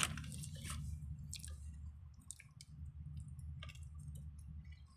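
A person chewing food close to the microphone, with short wet mouth clicks and smacks, over a steady low hum.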